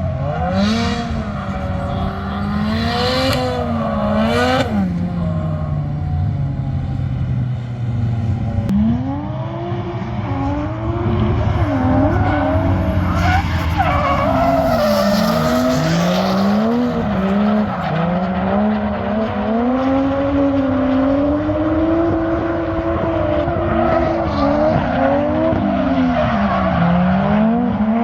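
Drift car engine revving hard, its pitch climbing and dropping again and again as the throttle is worked, with tyres squealing and skidding, most strongly about halfway through.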